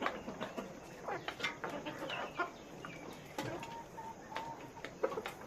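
A flock of chickens clucking and calling over one another, with short sharp calls and a longer held call about three and a half seconds in.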